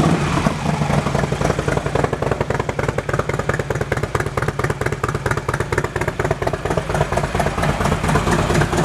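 Harley-Davidson Twin Cam 96 V-twin of a 2007 Electra Glide Standard idling steadily through aftermarket Screamin' Eagle exhaust pipes, with an even, fast pulsing beat.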